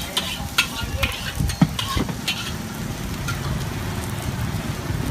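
Food frying with a steady sizzle, with several sharp clicks and scrapes in the first two seconds or so.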